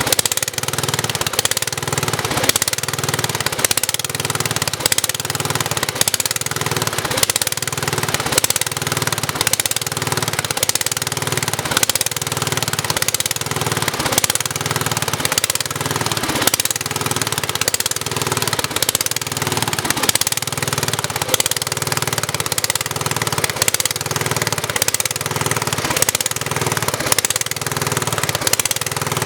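Sears Suburban 10 garden tractor's cast-iron Tecumseh single-cylinder engine running on after a cold start, its note swelling and easing about once a second.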